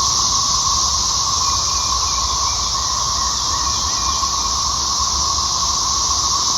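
A dense chorus of 13-year periodical cicadas, a steady, unbroken 'spaceship sound' from countless insects calling at once. A low rumble runs underneath.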